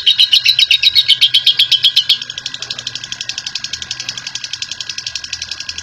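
Lovebird's long, rapid chattering trill (ngekek): a fast, even run of sharp chirps at about ten a second. About two seconds in it drops suddenly quieter and carries on.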